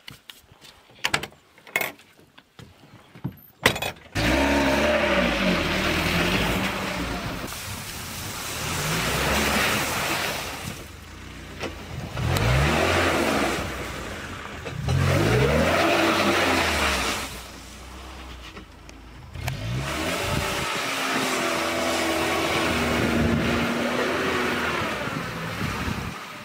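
A few sharp clicks and knocks, then about four seconds in a VAZ-2107 Lada sedan's engine starts and runs. It revs up and drops back several times as the car pulls away through the gears, and fades near the end.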